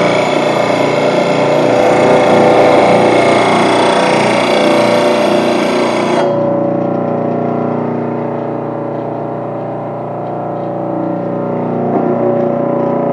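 VEVOR blade sharpener's grinding wheel running and grinding a steel mower blade, a steady motor tone under a harsh grinding hiss. The grinding stops suddenly about six seconds in while the motor keeps running.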